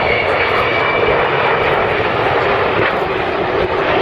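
Loud, steady aircraft engine noise from a display aircraft passing, a thick roar with a faint high whistle that fades early on.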